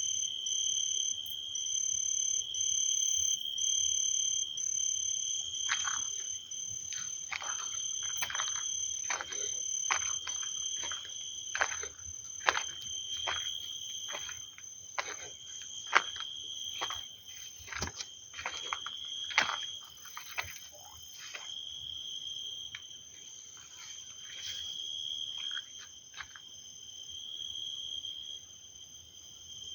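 Insects chirring steadily in two high, pulsing tones. From about six seconds in, a run of many short calls joins them, each falling quickly in pitch: a chorus of frogs that thins out a little after twenty seconds.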